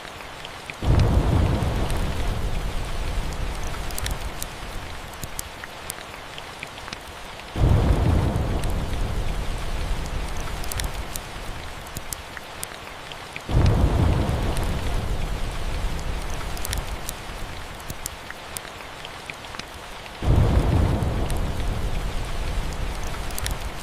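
Steady rain with four rolls of thunder, each starting suddenly as a deep rumble and fading over several seconds, about every six to seven seconds. Sharp crackles from a wood fire pop through the rain.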